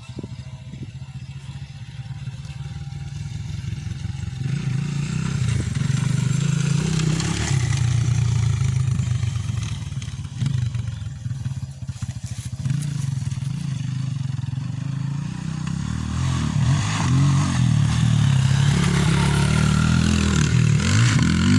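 Motocross bike engine revving up and down as it rides, getting louder over the first several seconds, easing briefly about halfway, then loud again toward the end.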